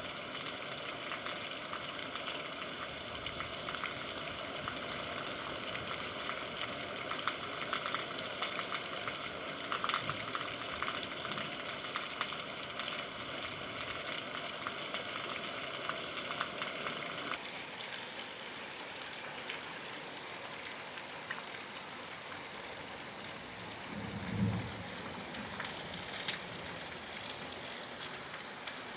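Steady rain with scattered drops pattering. About two-thirds of the way through, the higher hiss drops away abruptly, and a brief low pitched sound comes shortly after.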